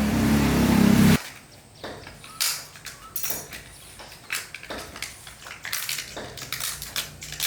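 A loud low steady hum cuts off suddenly just over a second in. It is followed by scattered light clicks and knocks, like hand tools and small metal parts being handled during engine repair.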